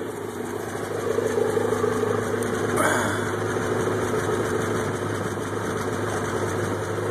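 Amphicar 770's rear-mounted Triumph 1147 cc four-cylinder engine idling steadily, heard from behind the car near its exhaust. A brief rush of noise cuts in about three seconds in.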